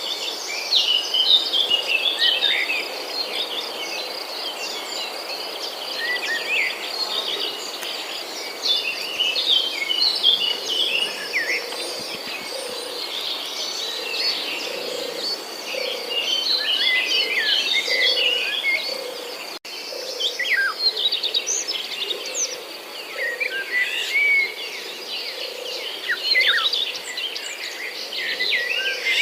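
Small birds chirping and twittering in many short, quick calls, over a steady high-pitched trill.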